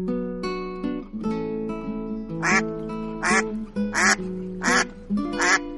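Duck quacking, five short quacks about 0.7 s apart starting about halfway in, over plucked acoustic guitar music.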